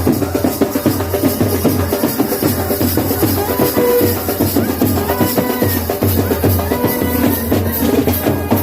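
Loud music with drums beating a fast, steady rhythm.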